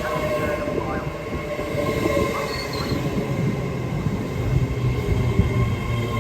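Passenger train moving at a station platform: a steady low rumble with several even whining tones over it. A short high-pitched squeal comes about two and a half seconds in, and the rumble grows heavier in the second half.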